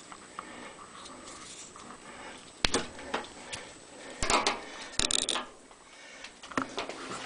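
Hand tools knocking and clattering in a few sharp strikes, about two and a half seconds in, then a short rattle around four seconds and another near five seconds.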